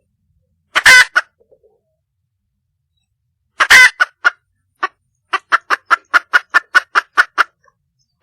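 Red junglefowl hen calling for a mate: two loud harsh calls about three seconds apart, then a quick run of about a dozen short clucks, some five a second.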